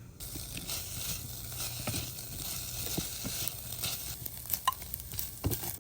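Fried rice sizzling in a hot pan as it is stirred, with sharp clicks of the utensil against the pan. The sizzle starts suddenly just after the start and cuts off at the end.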